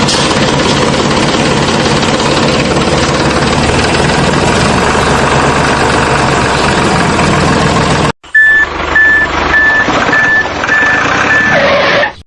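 A small vehicle's motor running steadily. After a sudden break, a reversing beeper sounds about twice a second over the running motor.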